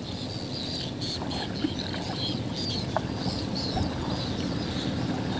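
Small birds chirping, short high notes repeated irregularly, over a steady low rumble, with a couple of faint clicks.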